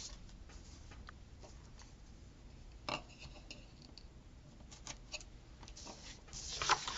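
Paper stickers and washi tape handled on a planner page: a few soft clicks and taps, with a louder rustle and crinkle of paper near the end.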